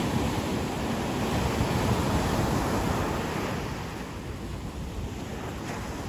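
Ocean surf washing onto a beach, a swell of rushing water for the first few seconds that eases off after about four seconds as the wave recedes.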